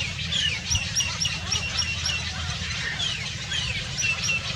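Small birds chirping: a quick run of about six short repeated notes, roughly three a second, then a few falling whistled calls, over a steady low rumble.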